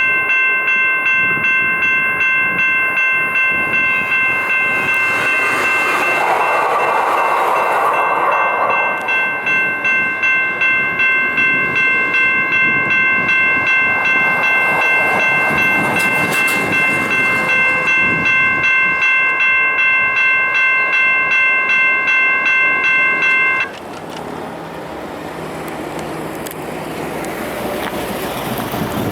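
Railroad crossing warning bell ringing in steady, evenly repeated strokes, cutting off abruptly about three-quarters of the way through, as a light rail train runs past.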